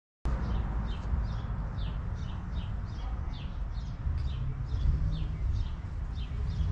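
A bird repeating a short, falling chirp about twice a second, over a steady low rumble outdoors.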